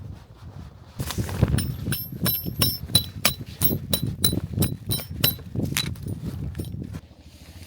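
Repeated sharp metallic strikes with a bright ring, about three a second, starting about a second in and stopping near the end, over a low rumble.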